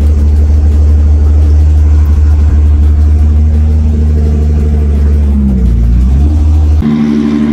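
Engine of a 1,300-horsepower Nissan Z pro drift car running loud and steady at low revs while cruising. The revs dip briefly and rise again about five and a half seconds in. The deep drone changes abruptly near the end.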